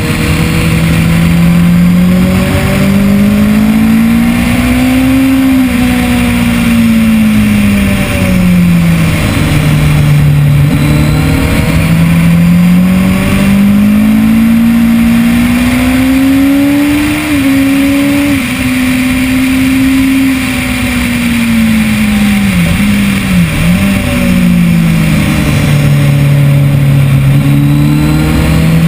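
2010 Kawasaki ZX-10R's inline-four engine at track speed, its note climbing under acceleration and falling away for corners, with quick dips and blips twice in the second half as it shifts down. Steady wind rush on the microphone runs beneath it.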